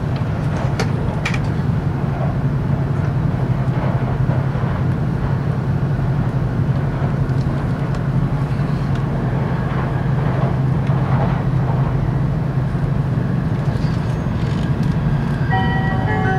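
Cabin noise of an E5 series Shinkansen running at speed: a steady low rumble and hiss from the running gear and the air. About a second before the end, the onboard announcement chime starts playing a short melody of bright tones.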